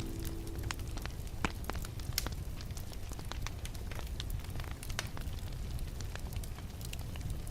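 Wood fire crackling: irregular sharp pops and snaps of varying loudness over a steady low rumble of the burning fire. A soft held music note fades out just at the start.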